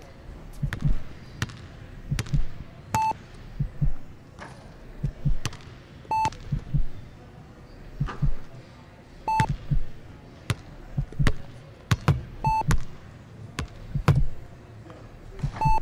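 Heart-monitor style beep, one short high beep about every three seconds, over repeated low thumps and scattered sharp clicks.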